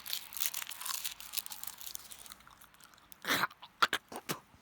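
Dry crackling and rustling, then several loud crunches about three seconds in as a raw onion is bitten into and chewed.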